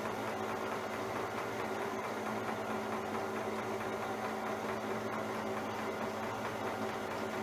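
Milling machine running steadily while the cutter takes a light skim pass across the tops of the vise jaws: an even machine hum with the hiss of the cut.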